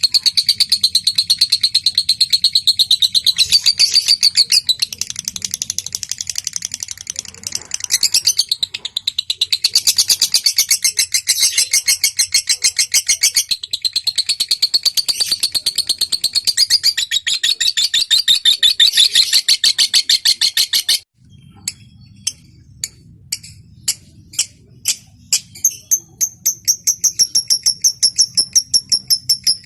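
Lovebird ngekek: a long, rapid chattering trill of sharp high notes that runs on without a break. About twenty seconds in it cuts off abruptly, a few separate clicks follow, and a new rapid trill starts near the end.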